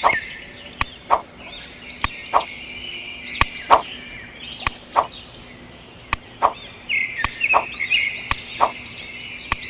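Short sharp knocks repeating about once a second, with high chirping bird calls in the background.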